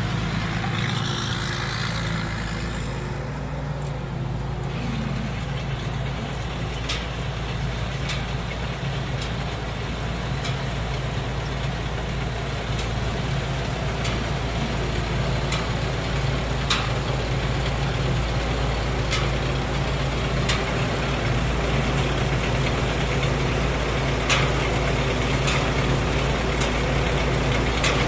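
Thai Seng Yont Chao Phayu 4.0 combine harvester running steadily under load as it cuts and threshes lodged rice, with faint clicks every second or two.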